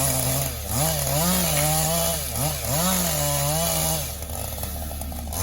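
Chainsaw engine revving up and down repeatedly while cutting, its pitch rising and falling, then easing off about four seconds in.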